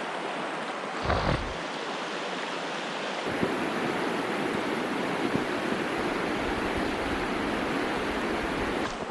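Steady rush of flowing river water. About a second in there is a brief thump, and from about three seconds in a louder low rumble joins the rush.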